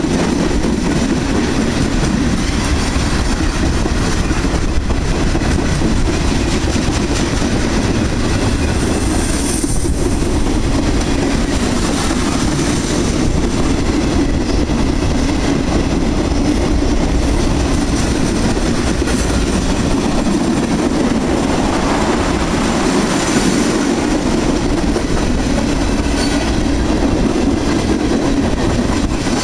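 Freight cars rolling past at close range: a steady, loud noise of steel wheels running on the rails, with no let-up as tank cars and boxcars go by.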